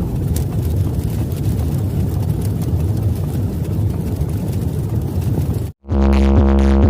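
Large DJ sound-box speakers putting out a loud, low rumbling noise, heavy in the bass, which cuts off abruptly just before six seconds in. A moment later electronic music with a deep, steady bass starts.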